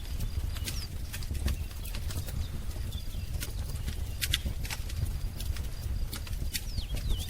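Wood fire crackling, with irregular sharp pops over a low steady rumble. A few short, high bird chirps come through, one about a second in and a couple near the end.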